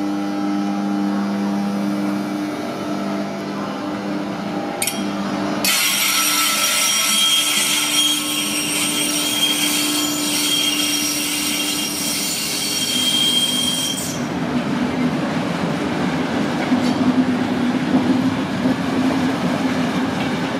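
Electric locomotive hauling a passenger train past and away: a steady hum at first, then a loud, high wheel squeal from about six seconds in that stops near fourteen seconds, leaving the rolling rumble of the coaches.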